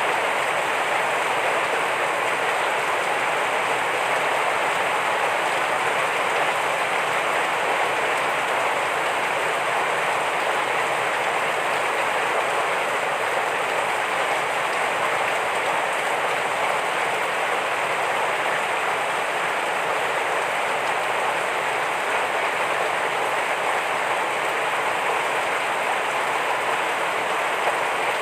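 Heavy rain falling steadily, an even hiss of countless drops on surfaces.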